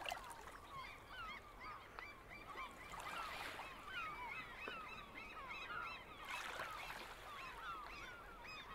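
A flock of birds calling: many short rising and falling calls overlapping continuously, faint.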